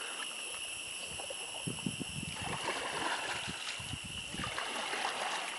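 Kayak paddle dipping and stirring the water, with irregular splashes and gurgles, over a steady high-pitched insect drone from the jungle.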